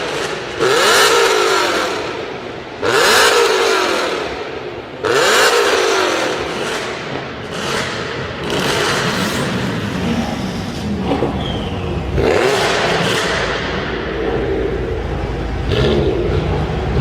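BMW M5 E60's 5.0-litre V10 engine being revved: three quick revs about two seconds apart, each dying away as the revs fall, then several seconds of steadier running with a few smaller rises.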